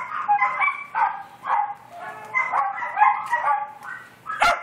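A dog making a rapid string of short, high-pitched whines and yips, then two sharp barks near the end.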